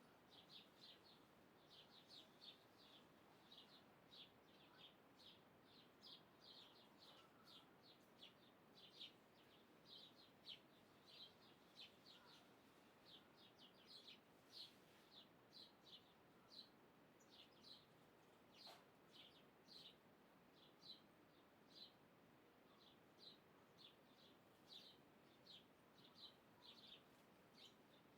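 Faint birds chirping: short, high chirps repeating about two or three times a second over a soft steady hiss of outdoor background.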